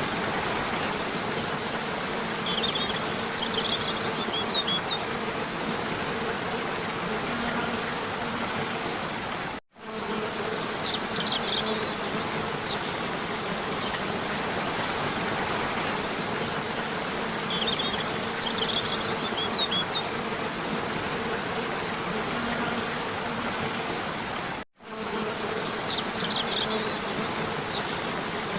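Steady buzzing, rushing ambience with a few brief high chirps. It cuts out for a split second twice, and the same stretch repeats after each cut, about every 15 seconds.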